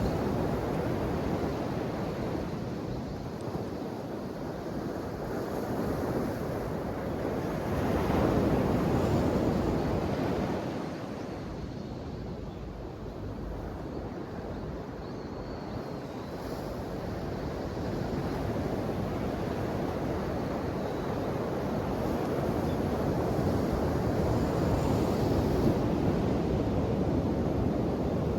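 Ocean surf: waves breaking and washing in as a continuous rush. It swells louder about a third of the way in, eases off, and builds again toward the end.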